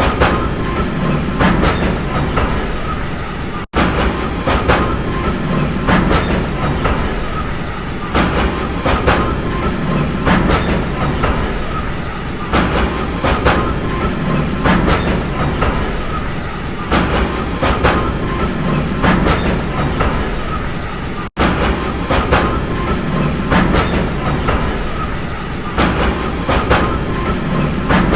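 A train running along the track: a steady rumble with the clickety-clack of wheels over rail joints, coming in groups of clicks every second or two. The sound cuts out for an instant twice.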